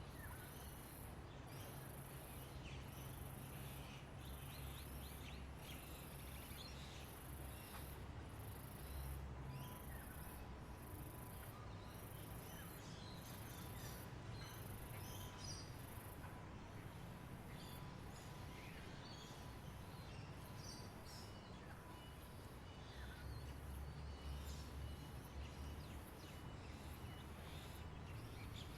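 Outdoor nature ambience: insects give a high-pitched hiss that pulses about once a second, while birds chirp now and then. A faint low rumble lies underneath.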